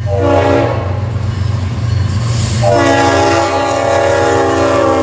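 Locomotive air horn sounding a chord of several notes, a short blast near the start and then a long blast about two and a half seconds later, over the steady low rumble of the train.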